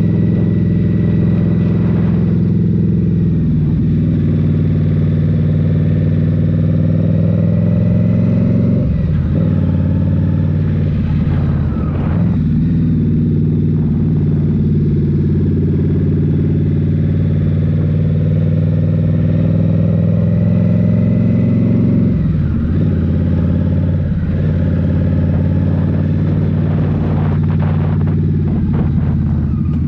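A 2023 Indian Scout Rogue's 69 cu-in V-twin with a Rinehart slip-on exhaust, ridden at a steady throttle. Several times the revs drop sharply and pick back up.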